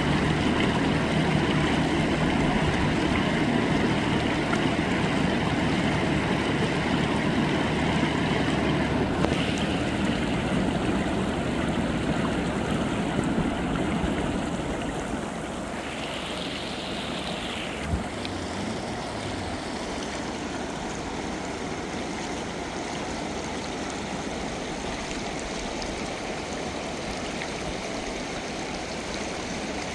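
Rushing river floodwater: a steady noisy wash of flowing water. A low motor hum runs under the first half and fades out around the middle, and there is a single brief knock a little past the middle.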